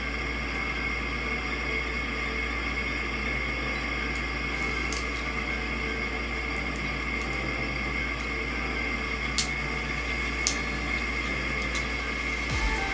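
Steady room hum and hiss with a few sharp clicks (about three, the loudest near the middle) from handling an Instax Mini 9 instant camera while loading its two AA batteries.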